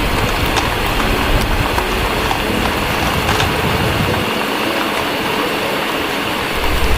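Steady heavy rain with small crackles of a wood fire, over a low rumble of distant thunder that drops away about four seconds in.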